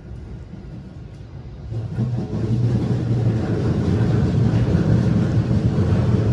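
Keihan electric commuter train running, heard from inside the passenger car: a low rumble of wheels on rails with a motor hum, growing louder about two seconds in and then holding steady.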